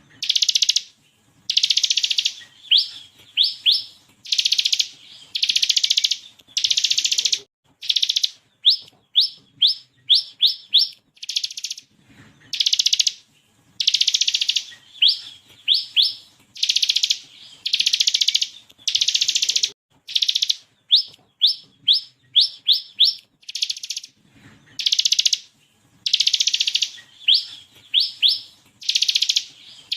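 Bar-winged prinia (ciblek kristal) singing loudly: dense buzzy trills about a second long (the 'ngebren' bursts) alternate with quick runs of two to four sharp rising notes (the 'tembakan' shots), over and over.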